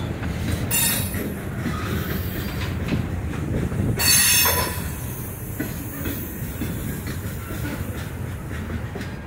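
Freight train of covered hopper cars rolling past close by: a steady low rumble of wheels on rail, broken by two short high-pitched squeals, one about a second in and a louder one about four seconds in.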